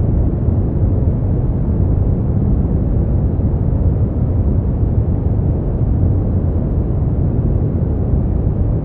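Brown noise: a steady, deep rushing hiss, strongest in the bass and fading out toward the treble, with no change.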